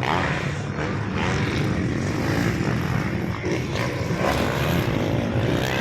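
Motocross dirt bike engines running together on the track, a steady, loud drone.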